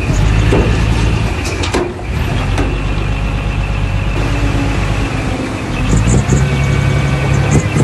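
Diesel engine of heavy earthmoving machinery running steadily, louder in the second half, with a few sharp knocks and brief high metallic squeaks.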